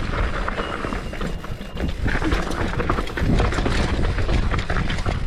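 Mountain bike being ridden down a rough dirt skills line: tyres on loose dirt and the bike rattling with many quick knocks over the bumps, under a steady low rumble of wind on the microphone.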